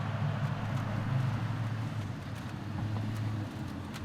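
A vehicle running: a steady low hum with a hiss over it, easing slightly about three and a half seconds in.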